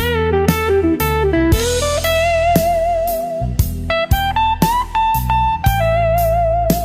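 Slow blues music: an electric slide guitar plays held notes with wide vibrato over a steady drum beat of about two strokes a second.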